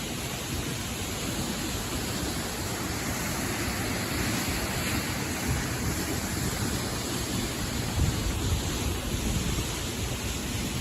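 A 32-metre waterfall pouring into a rocky gorge: a steady, unbroken rush of falling water.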